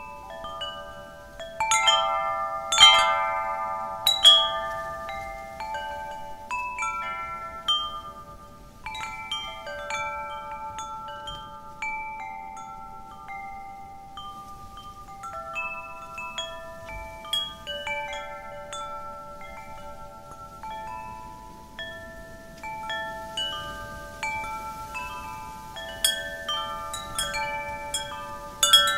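Wind chimes tinkling as the wind moves them. Irregular strikes ring on and overlap, with louder flurries of several notes about two to four seconds in and again near the end.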